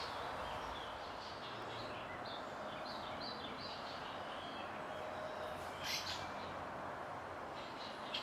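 Small songbirds chirping repeatedly in short, high notes over a steady background hiss, with a sharper, louder sound about six seconds in.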